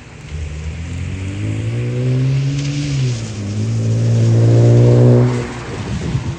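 Car engine accelerating: the pitch climbs for about three seconds, drops at a gear change, then climbs again and cuts off about five and a half seconds in.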